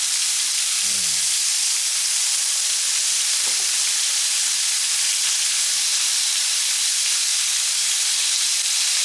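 Garlic frying in a pan on the stove, a steady sizzle.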